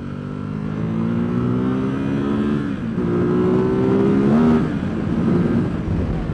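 Ducati SuperSport's 937 cc Testastretta L-twin engine and exhaust under hard acceleration, the pitch rising steadily. It drops at an upshift about three seconds in, climbs again, then drops once more about four and a half seconds in.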